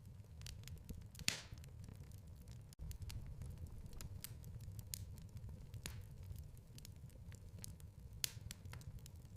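Fireplace fire crackling: irregular sharp pops and snaps over a low steady rumble of the flames, with a louder pop about a second in and another near the end. The sound cuts out for an instant near the three-second mark.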